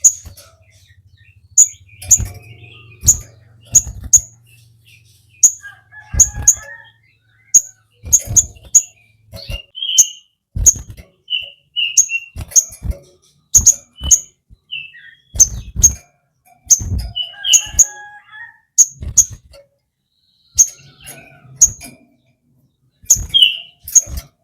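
A sogon songbird calls in short, sharp bursts: a steady run of high clicking notes, with brief squeaky calls mixed in and several dull low thumps.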